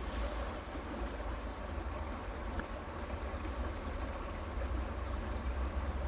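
Creek water flowing steadily, an even rushing noise with a deep low rumble beneath it.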